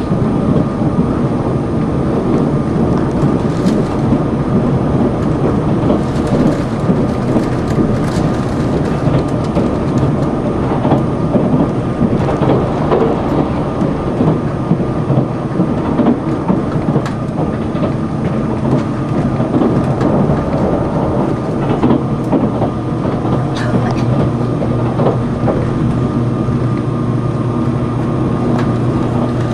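Inside the passenger car of a Sonic limited express tilting train running at speed: a loud, steady rumble of wheels on rail with scattered faint clicks. A steady low hum comes in more strongly near the end.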